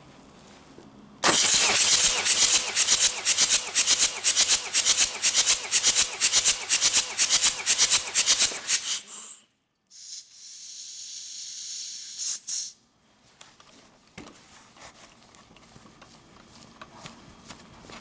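Hyundai D4BH four-cylinder diesel engine cranked on its starter for about eight seconds during a compression test, a fast rhythmic chuffing that stops suddenly. About a second later comes a steady hiss lasting a couple of seconds.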